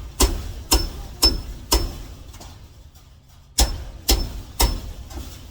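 Sharp knocks with a short metallic ring, about two a second: four in a row, a pause of nearly two seconds, then three more.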